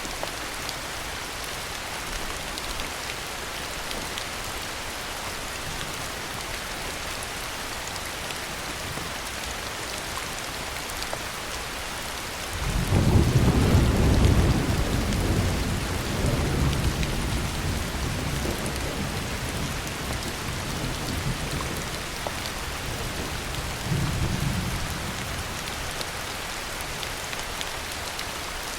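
Steady heavy rain with a roll of thunder that starts suddenly about halfway through, is loudest for a couple of seconds, then rumbles away over several seconds; a second, shorter rumble comes later.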